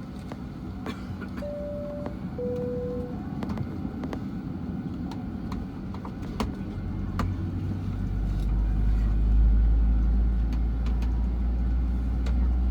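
Inside a Boeing 737-800 cabin: a steady drone of engines and air system with scattered small clicks and rattles, and a two-note high-low chime about two seconds in. From about seven seconds a deep low rumble comes in and grows louder.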